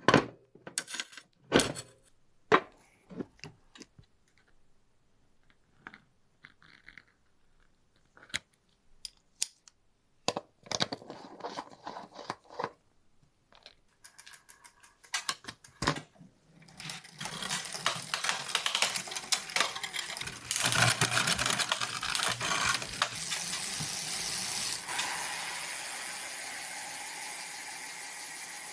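Small metallic clinks and taps of bicycle parts and tools being handled. From about halfway through, a dense rushing, buzzing sound swells and then slowly fades away.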